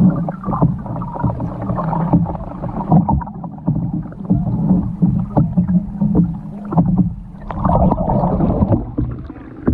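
Canoe on the water: irregular knocks and splashes over a steady low hum.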